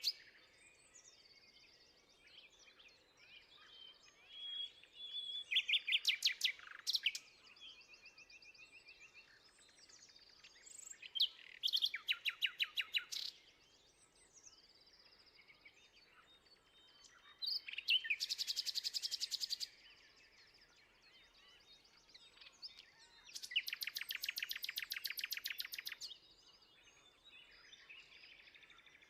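Birdsong: a loud, rapid trill of about two seconds, repeated four times roughly every six seconds, with fainter chirps and whistles from other birds between.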